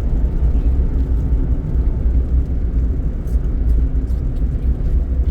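Steady low rumble of a car travelling at highway speed, heard from inside the cabin: road and engine noise.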